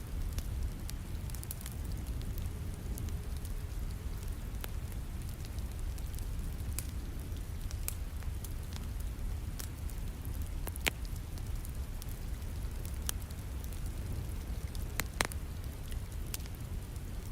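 Wood fire crackling with scattered sharp pops, two louder ones near the middle and toward the end, over a steady hiss and low rumble of falling rain.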